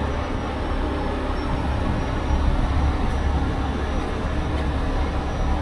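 Large diesel engine running steadily, a continuous low rumble with no change in pitch.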